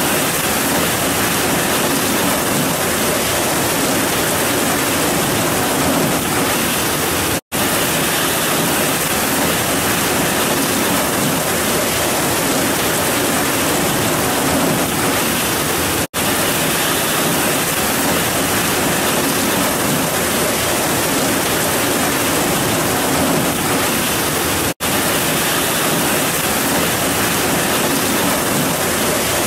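Heavy rain pouring down in a dense, even hiss. The sound cuts out for an instant three times, about every nine seconds.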